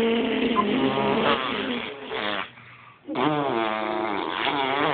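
Two long, drawn-out vocal sounds with a wavering pitch. The first ends about halfway through and the second starts about a second later.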